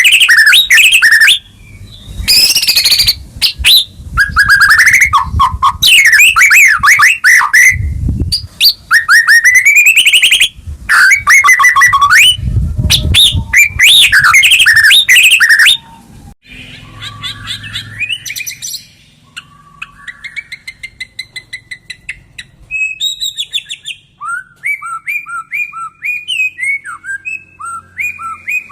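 White-rumped shama (murai batu) song: loud, rapid, varied whistled phrases for a little over half the time. After that, quieter runs of short repeated chirps.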